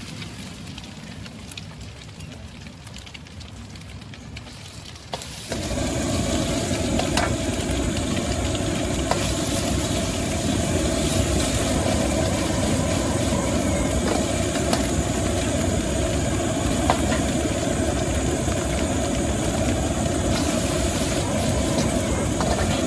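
Wok stove's gas burner roaring steadily after it opens up suddenly about five seconds in, with food sizzling in the wok and a few sharp clinks of the metal spatula.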